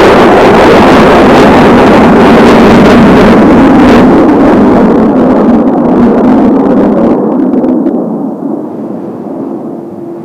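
Blue Impulse Kawasaki T-4 jet trainers passing close overhead: very loud jet-engine noise that fades away over the last few seconds as the aircraft move off.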